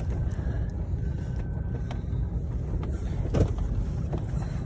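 Vehicle running and driving, heard as a steady low rumble from inside the cab, with scattered light clicks and rattles and one louder knock about three and a half seconds in.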